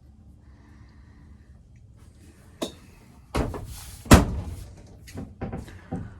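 A small door or cabinet in an old camper's galley being handled and shut: a click, a brief scrape, then one loud thunk about four seconds in, followed by a few lighter knocks.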